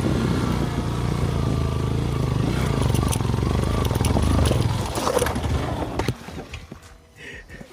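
Yamaha FZ V2 motorcycle's single-cylinder engine running at low revs, with scattered knocks. About five seconds in the engine sound falls away, leaving only faint knocks.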